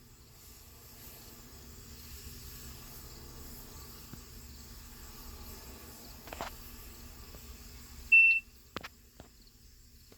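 Faint steady low hum of a distant engine being brought down to idle. About eight seconds in there is one short, high beep from the control tablet, followed by a couple of soft clicks.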